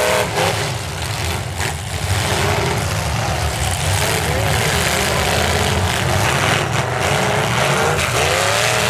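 Several demolition derby cars' engines revving hard as the wrecked cars shove against one another, loud and continuous.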